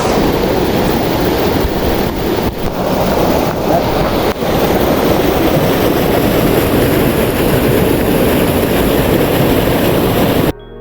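Waterfall pouring, a steady loud rush of falling water that cuts off suddenly near the end.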